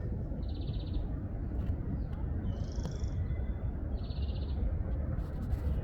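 A songbird repeating a two-part phrase, a short high note followed by a lower, rapidly pulsed buzzy note, twice, over a steady low rumble.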